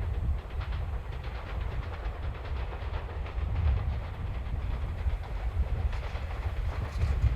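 Train running over a steel railway bridge: a steady low rumble with repeated clacks of the wheels over the rail joints, growing stronger near the end.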